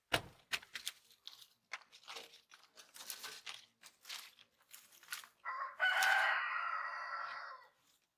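A rapid run of sharp clicks and knocks, then a rooster crowing once, a long call of about two and a half seconds starting about two-thirds of the way through.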